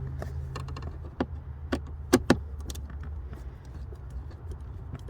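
Irregular sharp clicks and knocks of hands and a tool working on plastic trim and fittings under a car's dashboard, the loudest few between about one and two and a half seconds in, over a low steady hum.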